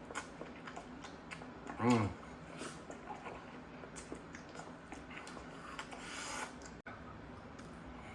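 Quiet eating and food-handling sounds: small clicks and rustles, with one short vocal sound falling in pitch about two seconds in and a brief rustle near the end.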